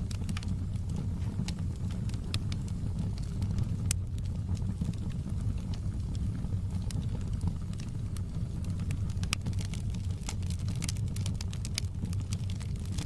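Wood fire burning in a fireplace: a steady low rumble of the flames with frequent sharp crackles and pops from the burning logs, a few of them louder.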